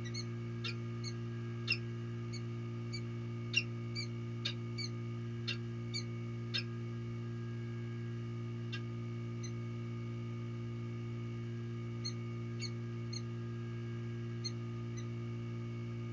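Short, high bird chirps, many in the first seven seconds and only a few after, over a steady low electrical hum from the nest camera's audio.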